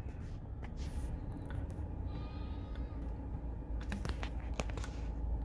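A flock of chickens gathering close, with scattered soft clicks and a brief faint cluck about two seconds in, over a low steady rumble.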